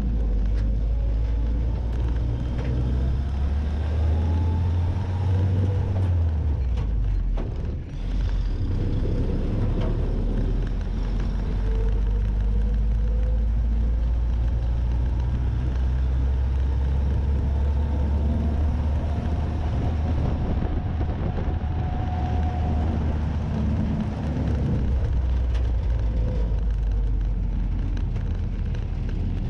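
Willys Jeep engine pulling under load on the road, its pitch rising and falling through the gears, with a short drop about eight seconds in as the clutch goes in for a shift.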